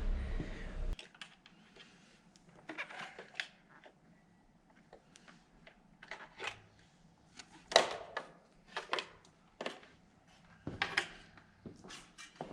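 Scattered clicks, taps and light knocks of plastic parts and tools being handled while working on the motorcycle's tail-light wiring, the loudest knock near the middle. A low hum cuts off about a second in.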